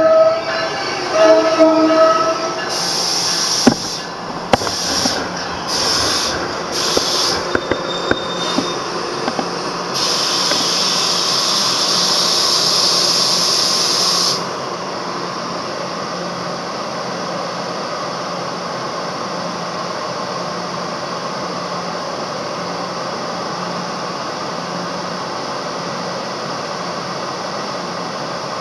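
NJ Transit ALP-46A electric locomotive's horn sounds briefly as the push-pull train passes, followed by the rolling rumble and hiss of the passing coaches and a loud steady hiss that cuts off suddenly about 14 seconds in. After that, a steady, even hum of a commuter train standing at the platform.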